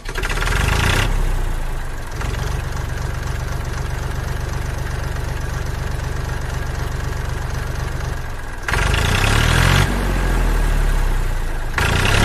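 Tractor engine idling with a steady low chug. About nine seconds in it changes and runs louder.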